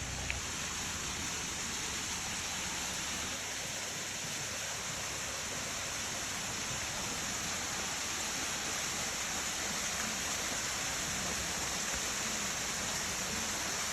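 Steady rush of running water, an even hiss with no pauses or swells.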